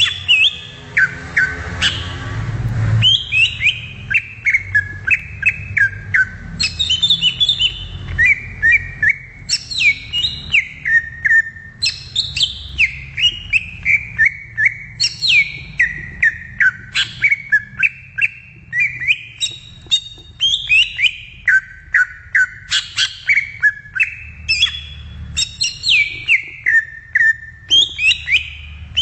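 Cucak ijo (green leafbird) singing: phrase after phrase of quick whistled notes, each phrase sliding down in pitch. There is a short burst of rustling noise in the first couple of seconds.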